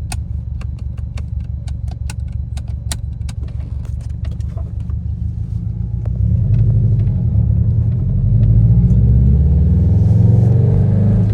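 2017 Subaru WRX STI's turbocharged flat-four engine and road noise while driving, with scattered light clicks over the first few seconds. About six seconds in, the engine gets louder and its pitch climbs as the car accelerates.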